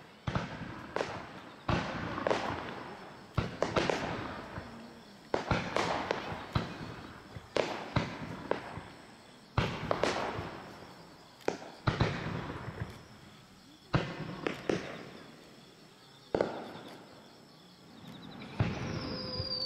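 Aerial firework shells bursting in quick succession, with sharp bangs about once a second, each trailing off in a long echoing decay. The bursts pause briefly near the end, when a whistle falling in pitch begins.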